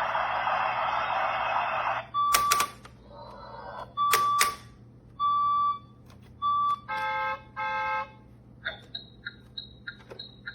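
Electronic sound effects from a toy school bus's buttons. It opens with about two seconds of a dense noisy sound, then clicks of button presses and several short steady beeps. About seven seconds in come two horn-like honks, followed by a string of quick high chirps.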